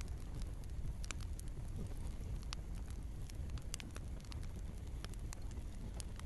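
Wood fire burning in a fireplace: a steady low rumble of flames with irregular sharp crackles and pops of burning logs, a few louder pops scattered through.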